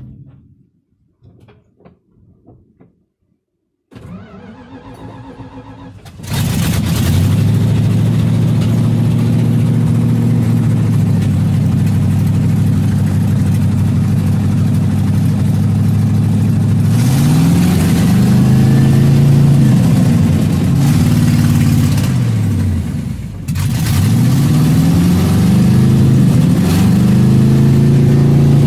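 Gasoline engine running on diesel fuel, heard from inside the cab: cranked by the starter for about two seconds, it catches and runs steadily, then is revved up and down several times. Near the end the revs drop sharply once, almost to a stall, before climbing again.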